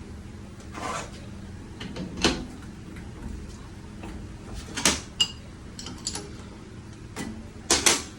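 Scattered metallic clinks and knocks of tools and injector parts being handled on a workbench, over a steady low hum. The loudest knocks come just after two seconds, near five seconds (briefly ringing) and twice just before the end.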